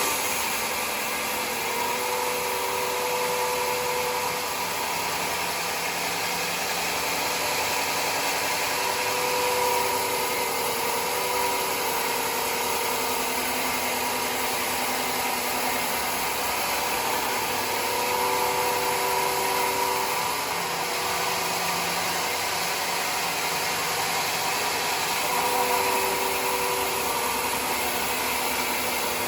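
Homemade sawmill running steadily: a constant machine noise with a pitched hum that swells and eases every few seconds.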